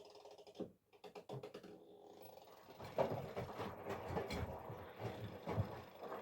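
Miele Professional PW 6065 Vario washing machine in its rinse phase, the drum turning and tumbling a load of wet stuffed toys in water, with sloshing and soft thuds. It gets louder and rougher about three seconds in as the drum turns.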